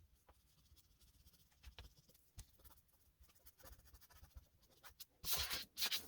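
Oil pastel stick scraping across toothy paper in short colouring strokes. It is faint and sparse at first, with a louder run of scratchy strokes near the end.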